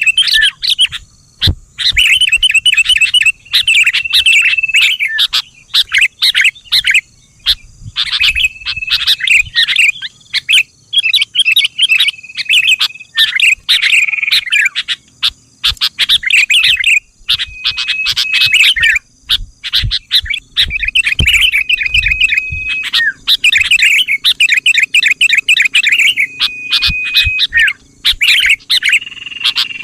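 Sooty-headed bulbul calling loudly in repeated bursts of quick chirps and short whistled notes, phrase after phrase with brief pauses between them.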